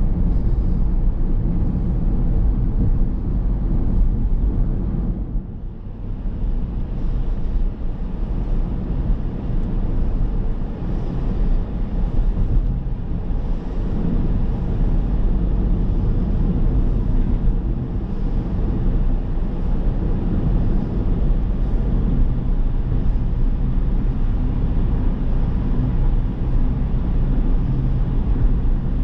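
A car on the move: a steady low rumble of road and engine noise, easing briefly about five seconds in before picking up again.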